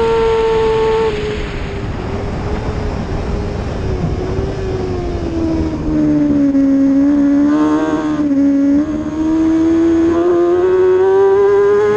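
Race motorcycle engine running at high revs: the pitch holds high, sinks as the bike slows, then climbs steadily as it accelerates again, over a rush of wind noise.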